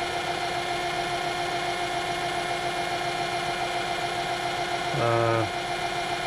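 Small metal lathe running steadily, a constant motor hum with a fixed whine and no change in pitch. A short hum of a man's voice comes about five seconds in.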